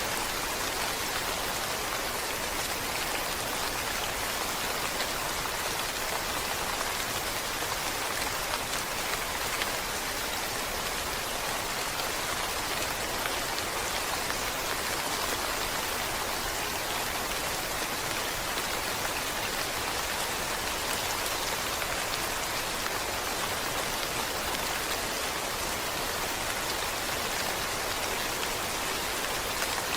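Steady rain falling on a surface, an even continuous patter of many drops with no let-up.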